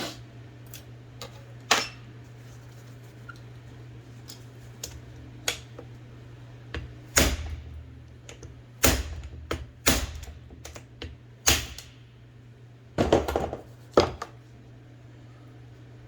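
Metal parts and tools of an IBM Selectric II typewriter clicking and clacking as it is worked on by hand: about a dozen sharp, irregular knocks, the loudest coming in the second half, over a steady low hum.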